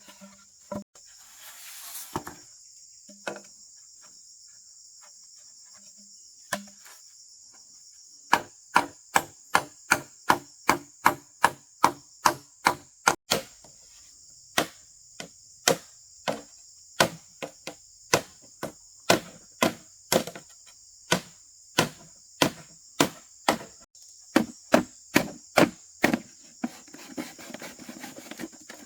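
Repeated sharp blows of a tool on wood, about two a second, starting about eight seconds in with a couple of brief pauses, over a steady high drone of crickets.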